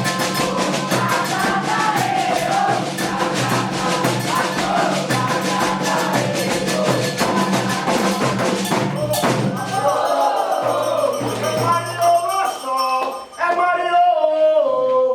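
Candomblé drumming on atabaques with singing: a fast, dense beat under voices. It breaks off suddenly about nine seconds in, and then a single voice comes in, holding steady notes that step up and down in pitch.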